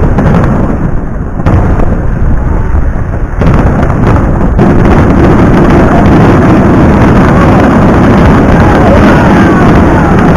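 Fireworks display: a dense, loud barrage of bangs and booms running into one continuous rumble, with a few short whistling glides in the second half.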